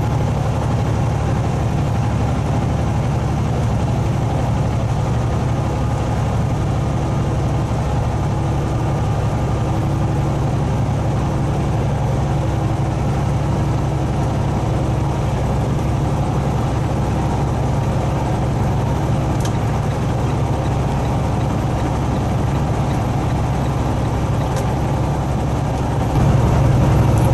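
Semi-truck's diesel engine running steadily inside the cab, with road noise, while the truck climbs a mountain pass; it grows a little louder near the end.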